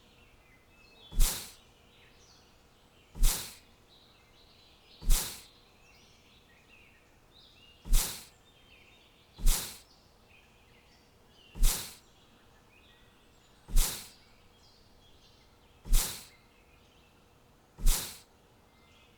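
Faint bird chirping, with a short, loud whoosh of noise about every two seconds, nine in all, each rising sharply and dying away within about half a second.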